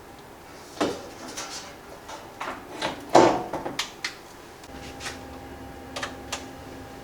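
Kitchen clatter: a quick series of clicks and knocks from dishes and cupboard fittings being handled, the loudest a little after three seconds in, then a steady appliance hum starts about two-thirds of the way through.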